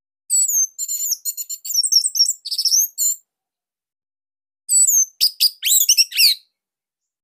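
Orange-headed thrush singing: two bursts of rapid, varied high-pitched notes with quick slides, separated by a pause of about a second and a half.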